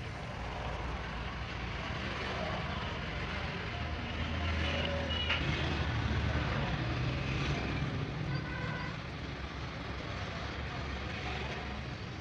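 A vehicle engine running steadily, growing louder for a few seconds in the middle, with a single sharp click about five seconds in.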